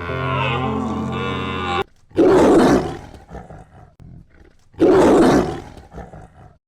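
A sustained pitched sound cuts off just under two seconds in. Then come two loud animal roars, about two and a half seconds apart, each fading out over a second or so.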